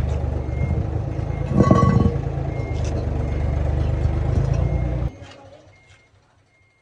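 Bus engine running steadily, with a metallic clank about two seconds in, then cutting off abruptly about five seconds in, leaving near silence.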